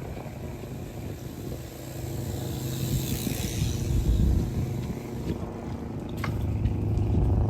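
Road traffic: a steady low rumble, with a vehicle's hiss swelling and fading about three seconds in.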